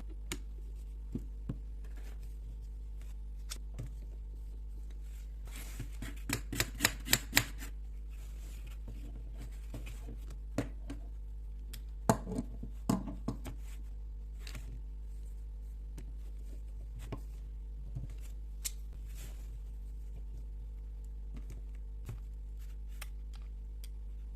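Sharp clicks and light taps of small metal carburetor parts and hand tools being handled on a workbench. A quick run of clicks comes about six seconds in, and another cluster about twelve seconds in, over a steady low hum.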